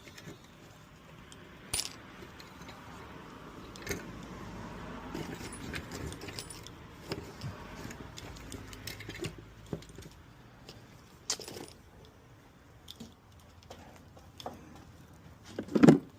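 Small metal parts and hand tools clinking and jangling now and then, as motorcycle bolts and washers are handled during a repair. One louder thump comes near the end.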